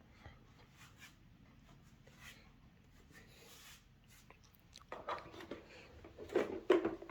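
Faint clicks and rustles of plastic vacuum cleaner parts being handled, with a run of louder plastic knocks and clatter in the last two seconds. No motor is running.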